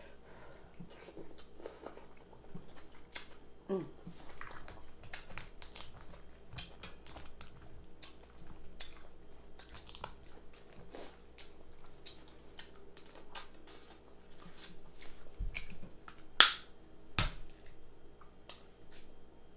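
A person eating crab legs close to the microphone: chewing with frequent wet lip smacks and mouth clicks, and one louder snap near the end.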